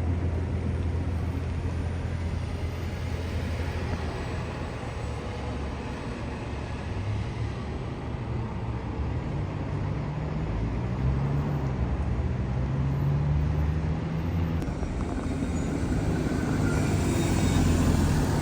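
A large transit vehicle running: a steady low rumble, with a motor tone that rises and falls from about halfway through.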